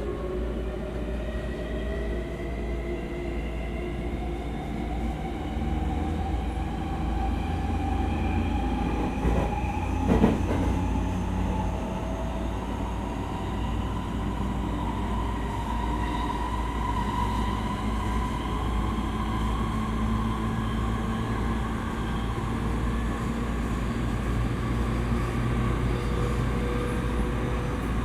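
E231-series electric train running and accelerating, its traction motors' whine rising slowly and steadily in pitch over the rumble of wheels on rail, heard from inside the passenger car. A couple of short knocks from the track come about ten seconds in.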